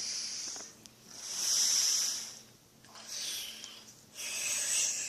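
A person making breathy hissing exhales, four long ones in a row, each swelling and fading.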